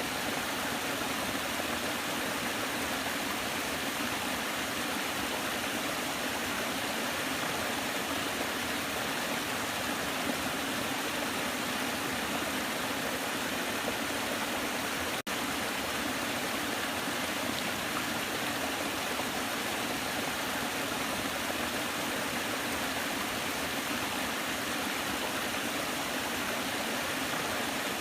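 Waterfall rushing: steady, even water noise, with a split-second break about halfway through.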